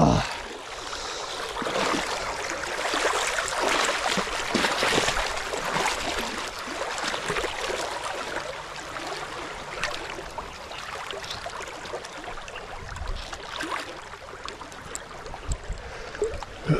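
Running stream water: a steady rushing and babbling that swells and eases a little.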